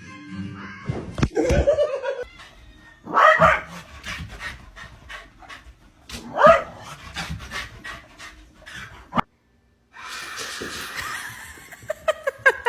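A dog panting, with three loud short calls about one and a half, three and six and a half seconds in. The sound cuts out for a moment a little after nine seconds.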